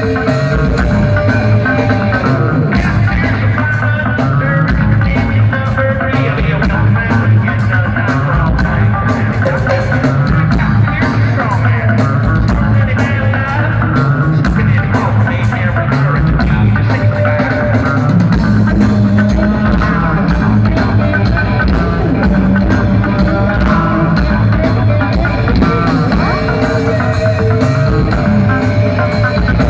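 A rock band playing live and loud, with guitar, bass and drum kit.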